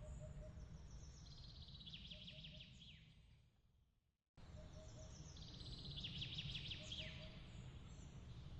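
A songbird singing a fast trilled phrase that ends in a falling note, heard twice a few seconds apart over a faint low steady rumble. The sound fades out to a moment of complete silence about four seconds in, then returns abruptly.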